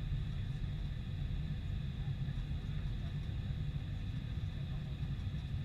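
Boeing 747-400 airliner noise: a steady low rumble with a faint, even high whine above it.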